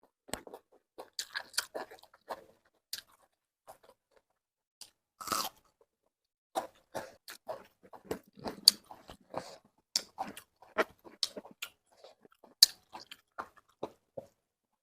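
A person chewing and crunching food close to the microphone: irregular short crunches and mouth clicks, several a second, with a slightly longer noisy crunch a little past five seconds in.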